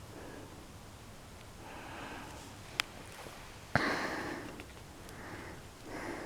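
Soft sniffing sounds close to the microphone, several short puffs, with a sharp click about three seconds in and a louder sudden one just before four seconds.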